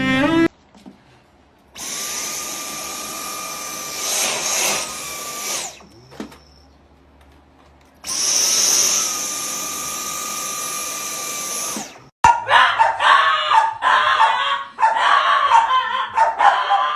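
A small motor running in two stretches of about four seconds each, a steady whirr with a whine in it, each cutting off suddenly; from about twelve seconds in, a fast choppy run of short sounds follows.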